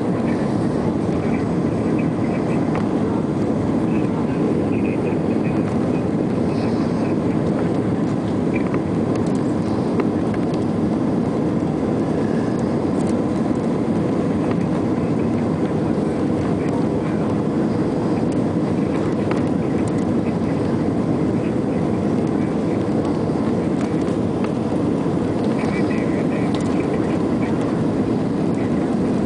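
Steady cabin noise inside an Airbus A320 airliner in flight: a constant rumble of engines and airflow with no change in level.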